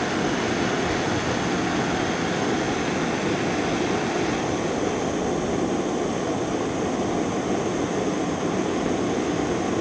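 Gas-canister torch flame running steadily while a copper pipe joint is heated and solder is fed in until the joint is filled.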